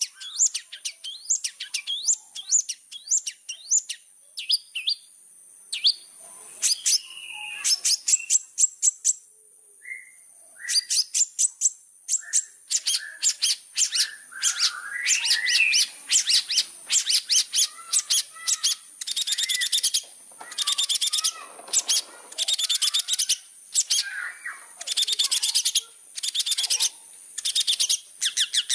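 Long-tailed shrike (cendet) singing in full voice: rapid, varied runs of sharp, high chattering notes and buzzy trills, broken by short pauses, with a faint steady high-pitched tone behind.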